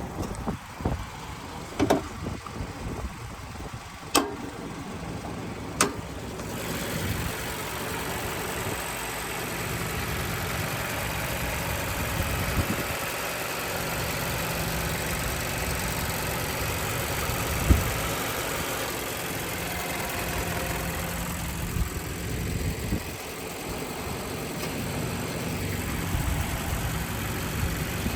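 2016 Mazda CX-5 running. A few sharp clicks in the first six seconds, then a steady rushing noise comes in about six and a half seconds in and holds.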